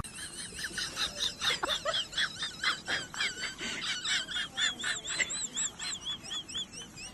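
Bird chirping: a quick run of short, high calls, several a second, settling in the second half into repeated rising-and-falling chirps.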